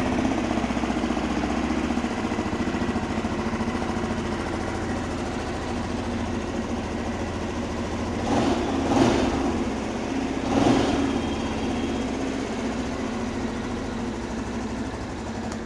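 Benelli Imperiale 400's air-cooled single-cylinder engine idling steadily through its exhaust, with three short throttle blips just past the middle.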